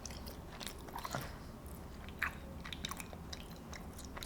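A person chewing food close to the microphone, with many short, irregular wet mouth clicks.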